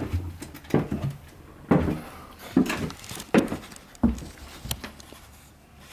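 Footsteps walking across the floor of a room, steady heavy thuds a little more than one a second, stopping about five seconds in.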